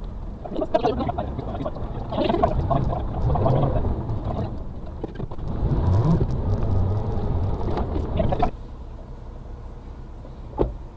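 Suzuki Carry kei truck's 660cc engine and cab rattles, heard from inside the cab while driving, loud and uneven until it drops suddenly about eight and a half seconds in. A single sharp click follows near the end.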